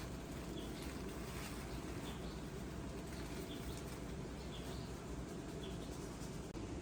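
Pigeon loft ambience: pigeons stirring, with faint short high chirps recurring every second or so over a steady background noise.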